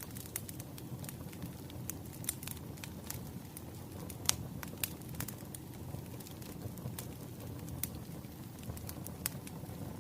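Wood fire crackling: irregular sharp pops and snaps over a steady low rumble of burning logs, with one louder pop a little before the middle.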